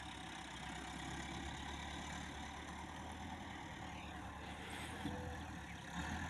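Tractor engine running steadily: an even low hum that grows a little louder near the end.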